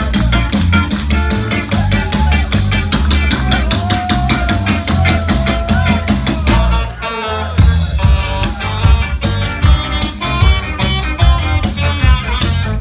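Live rock band playing an instrumental passage with the drum kit loud in front. A held melody note sounds over the beat for a couple of seconds, the band drops out briefly about halfway, then the drums come back in with fast, hard hits.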